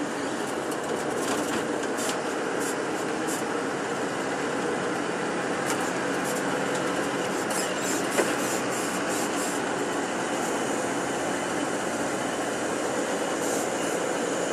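Tour bus engine and road noise heard from inside the cabin: a steady drone with clusters of light clicking rattles and one sharp click about eight seconds in.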